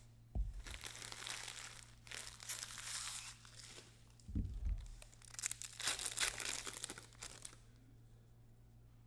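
Trading-card pack wrappers being torn open and crinkled, in two spells of crackling: one about half a second in and one near the middle, each starting with a low thump. A steady low electrical hum runs underneath.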